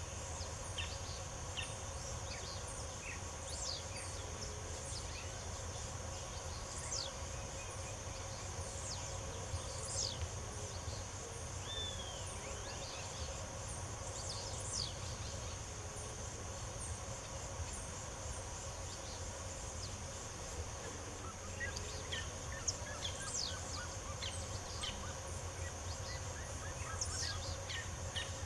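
Birds singing in many short, sharp, quick chirps, scattered throughout, over a steady high-pitched insect drone.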